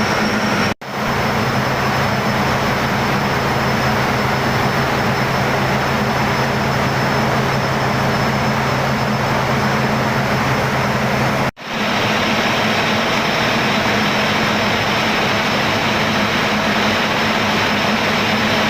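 Gas engine running steadily at constant speed: a loud, even machinery noise with a low hum under it. The sound cuts out for an instant twice, about a second in and again about two-thirds of the way through.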